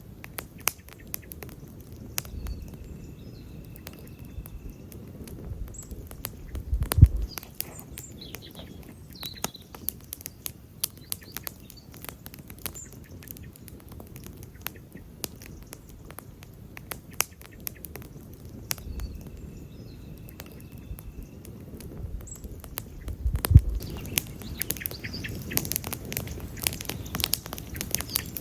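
Wood campfire burning, with a steady stream of sharp crackles and snaps over a low rustle of flame, and two louder pops, about seven seconds in and again near 23 seconds.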